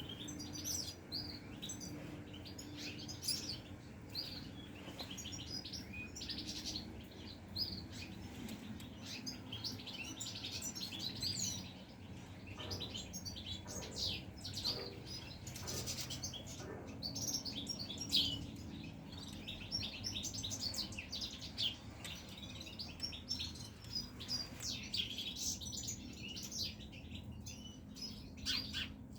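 Caged goldfinches chirping and twittering, many short calls overlapping throughout, with some wing flutters and a steady low hum underneath.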